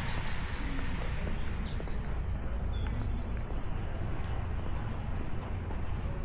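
Songbird singing a quick run of high chirps and trills through the first half, then falling quiet. Under it runs a steady low outdoor rumble.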